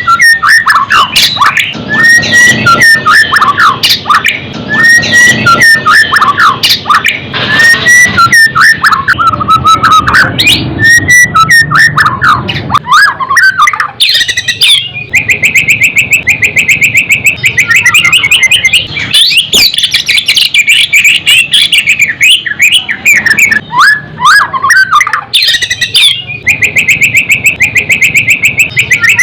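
White-rumped shama (murai batu) singing loudly: repeated whistled phrases that rise and fall for the first half, then a long, very fast trill of repeated notes from about halfway on.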